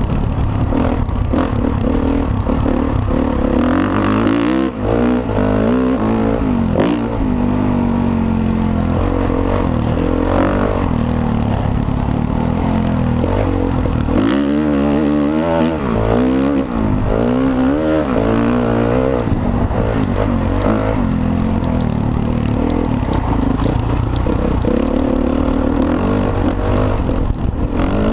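Motocross dirt bike engines running hard, revving up and down again and again as the riders work the throttle through the track.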